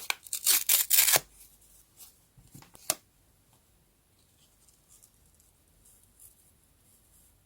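Paper being handled and cut: several loud, crisp rustling strokes in the first second, a sharp click near three seconds, then faint small rustles of paper.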